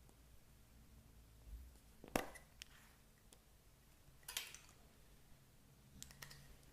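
Slime being kneaded and mixed by hand: a few short, faint squishy clicks and pops, the loudest about two seconds in, one more just past four seconds and a pair near the end.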